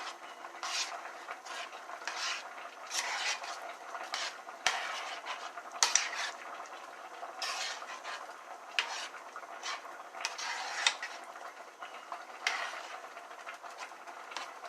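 A spoon stirring and scraping around a cooking pot of squash and spinach, in uneven repeated strokes with a few sharp clinks against the pot.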